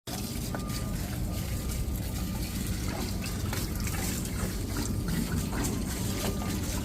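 Water pouring and trickling in a steady stream, as when garden plants are watered.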